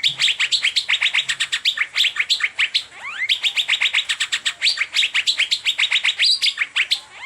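Asian fairy-bluebird (cucak biru) singing in the 'teler' style: long runs of quick, sharp notes, about ten a second. Each phrase opens with a rising sweep, with new phrases starting about three seconds in and again near the end.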